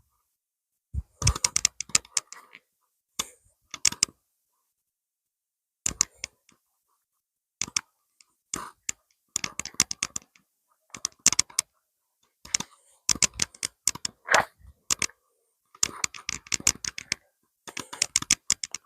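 Close, dry crackling and clicking in irregular clusters of rapid ticks, each cluster a second or so long, with stretches of silence between them.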